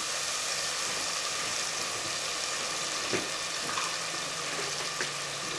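Onions, curry leaves and tomatoes frying in oil in a clay pot, a steady soft sizzle with a couple of faint ticks.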